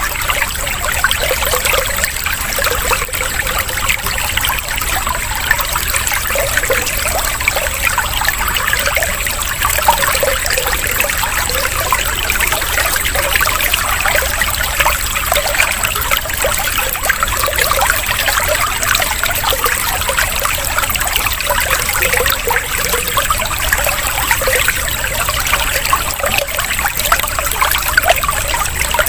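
Running water trickling and splashing steadily, a continuous water-sound track.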